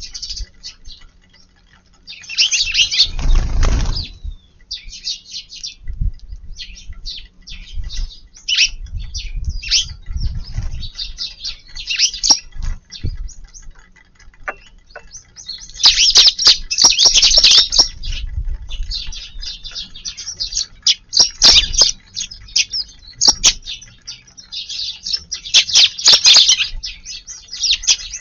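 A flock of Eurasian tree sparrows chirping busily in irregular bursts, with short flurries of wingbeats.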